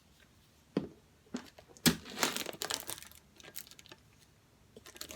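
Plastic cotton candy packaging crinkling and crackling as it is handled, beginning with a few sharp snaps and then a burst of dense crinkling about two seconds in.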